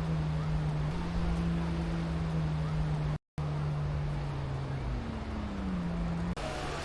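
Motorboat engine droning offshore at a steady low pitch, its note sliding down a little about five seconds in, over a steady hiss of wind and surf. The sound cuts out completely for an instant about three seconds in.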